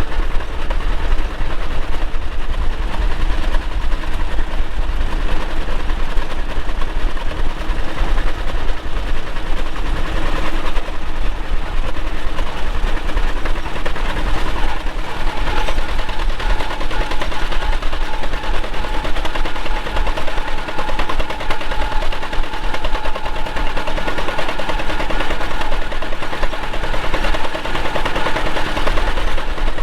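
Antique farm tractor engine running steadily under way, its exhaust a rapid, even popping.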